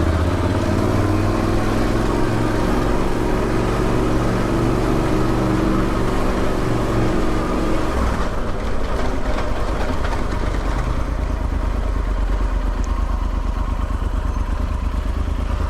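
Motorcycle engine running at low speed. About halfway through the engine note eases off to a lower, steadier sound.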